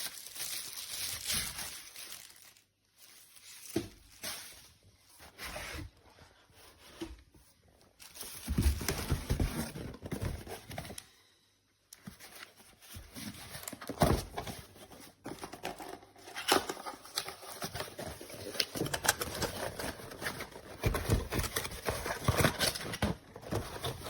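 Packaging being handled and unwrapped during an unboxing, in irregular spells of rustling and crinkling with a couple of short pauses.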